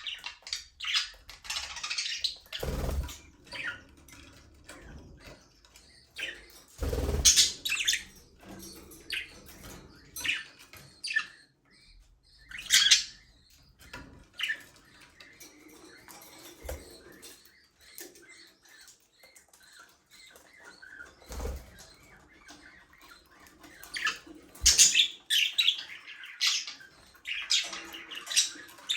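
A flock of budgerigars chirping and chattering in short, high calls. The calls come in busy bursts near the start and end, with a sparser spell in the middle. A few short low thumps sound among them.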